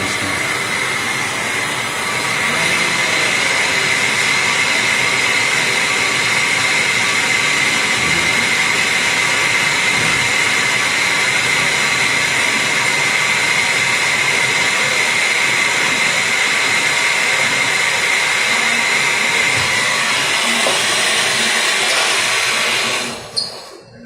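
An electric motor-driven machine running loudly and steadily with a high whine, building up over the first couple of seconds and then switched off suddenly near the end.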